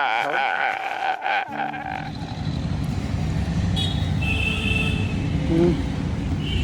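Low, steady rumbling noise of a moving vehicle on the road, coming in about a second and a half in after a wavering musical tone fades out.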